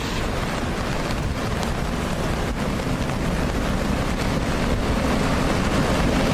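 Steady roar of heavy rain and wind on the microphone, with a deep rumble underneath, growing slightly louder toward the end.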